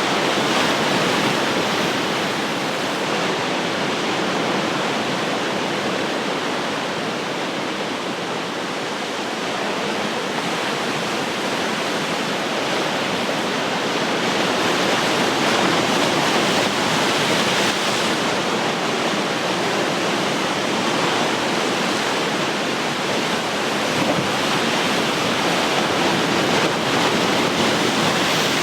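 Ocean surf: waves breaking and washing up the shore in a continuous rush that swells and eases every several seconds.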